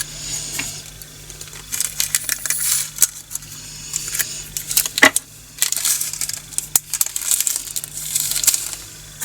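Tiny resin diamond-painting drills poured from a bag into a plastic storage container: a rattling patter of many small beads in three bursts, with scattered single clicks between.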